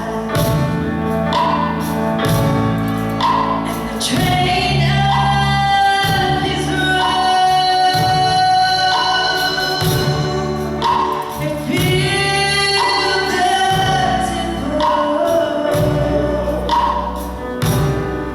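Gospel music: voices singing over instrumental accompaniment, with a steady beat.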